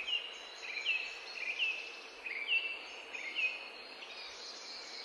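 A small bird chirping, five short hooked chirps about one every second, over a steady outdoor background hiss.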